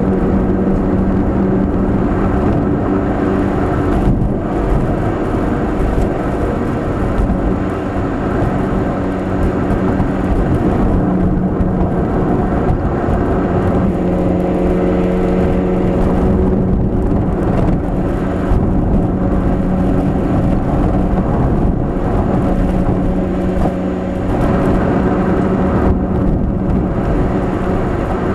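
Nissan K12 March 12SR's engine, breathing through a Kakimoto aftermarket exhaust, droning steadily at cruise, heard from inside the car over road and tyre noise. The drone dips briefly a few times.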